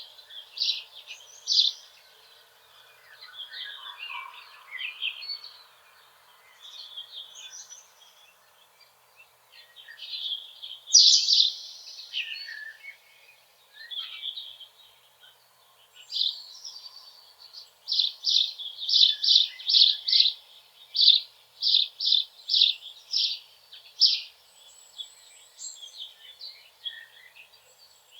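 Songbirds singing, with clear high notes repeated in short phrases and a quick run of evenly spaced notes about two-thirds of the way through.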